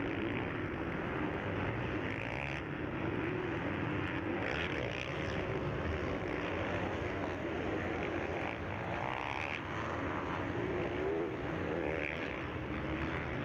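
Several motocross bike engines running together on the track, revving up and backing off as the riders race.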